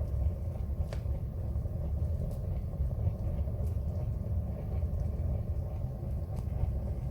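Wood fire burning in a fireplace: a steady low rumble with a few faint crackles.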